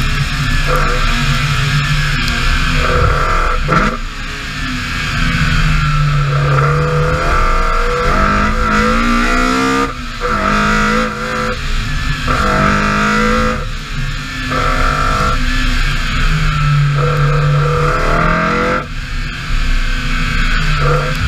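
BMW E30 M3's four-cylinder engine under hard acceleration, its pitch climbing again and again and breaking off at each gear change or lift.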